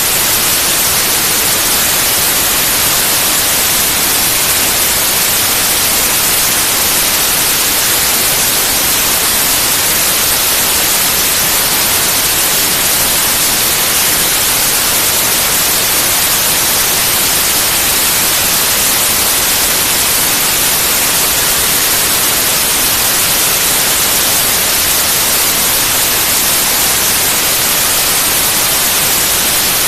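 Steady white noise: an even, loud hiss across the whole range of pitch, brightest in the highs, unchanging throughout.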